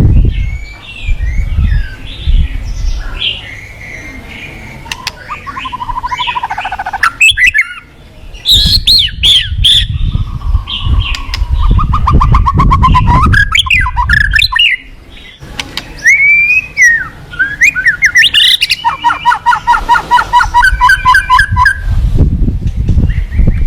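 White-rumped shama (murai batu) singing a long, varied song of whistled glides, chattering and rapid trills. A low rushing sound of fast-flowing river water runs underneath.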